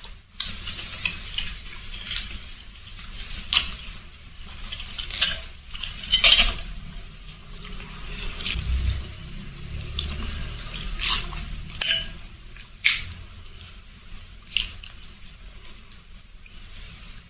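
Eating noodle soup at close range: utensils clinking against the bowl in scattered sharp clicks, amid wet slurping and mouth sounds.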